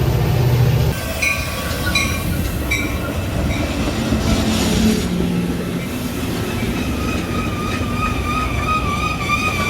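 Metra commuter train moving at the station. Three sharp ringing clanks come early on, and from about seven seconds in the wheels squeal with a steady, wavering high tone.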